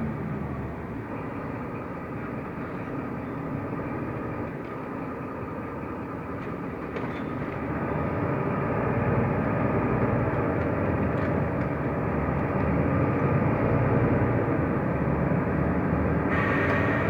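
Mercedes-Benz O345 Conecto LF city bus under way: steady engine and road noise, getting louder about eight seconds in, with a short hiss near the end.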